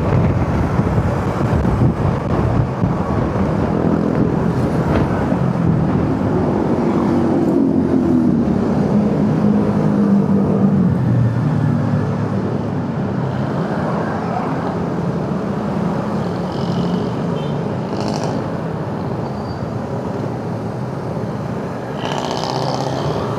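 Motorcycle engine running on the move with steady road noise from the ride; the engine note falls partway through.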